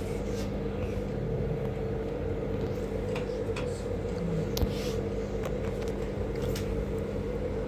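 A steady mechanical hum, holding two steady tones over a low rumble, with a few light clicks and knocks.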